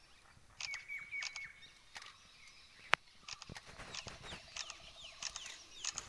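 Forest birds calling: three short high notes about a second in, then a run of quick notes that each slide downward, starting about three seconds in. A single sharp click just before the middle is the loudest sound.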